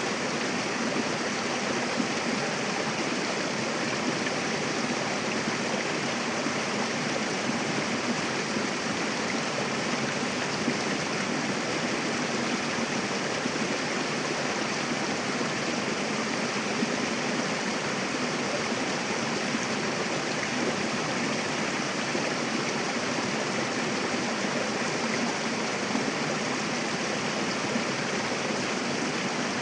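Mountain river rushing over rocks: a steady, even rush of running water.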